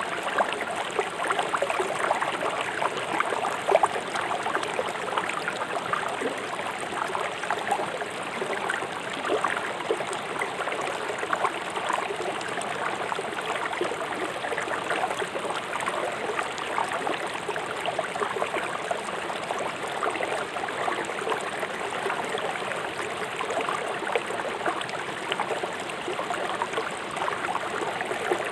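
River water rushing over rocks, a steady splashing and gurgling.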